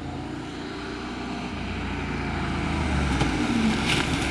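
BMW 325tds 2.5-litre inline-six turbodiesel engine running steadily, growing slightly louder, with a few light clicks near the end.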